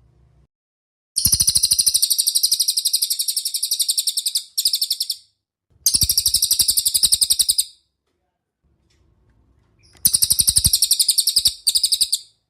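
A songbird giving a fast, rattling chatter of rapid, evenly repeated notes, in about five bursts lasting from under a second to about three seconds, with short silences between them.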